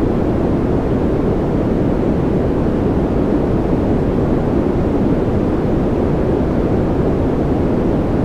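Continuous sleep-aid noise, a steady hiss that never changes. It is weighted toward the low end, so it is a deep, even rush rather than a bright hiss.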